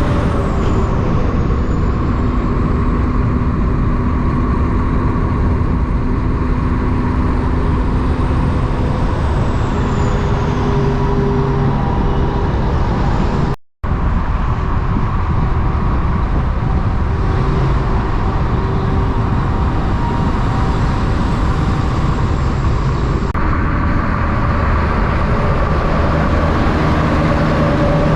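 Heavy diesel semi-truck traffic running and passing steadily, with engine tones that change as different trucks go by. The sound cuts out for a split second about halfway through.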